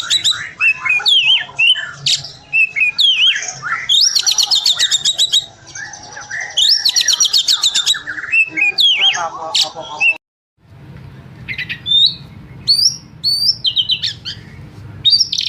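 Oriental magpie-robin (kacer) singing in an agitated, 'emosi' way. High rapid rattling trills come every few seconds, with slurred whistled notes between them. The sound cuts out briefly about two-thirds through, then short sharp up-and-down whistles follow and another trill comes near the end.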